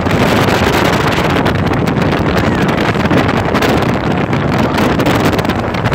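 Heavy wind buffeting the microphone aboard a speedboat under way, over the steady noise of the boat moving fast through the water.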